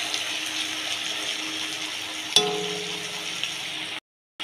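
Sliced onions and garlic sizzling in hot mustard oil in a wok while being stirred with a metal spatula. About two and a half seconds in, the spatula strikes the wok with a single ringing clink. The sound cuts out briefly near the end.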